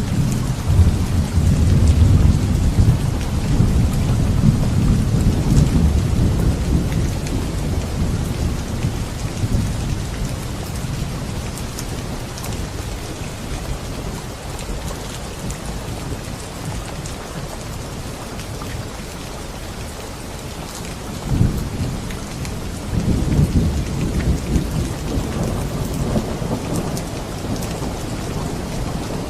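Heavy rain falling steadily during a thunderstorm. Low rolling thunder rumbles through the first several seconds, fades, and rolls in again about two-thirds of the way through.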